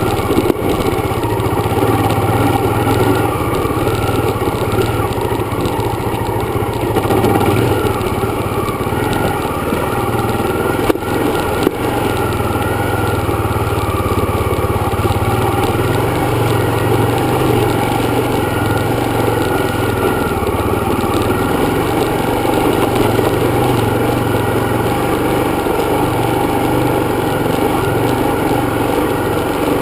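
Dirt bike engine running steadily, with a brief click about eleven seconds in.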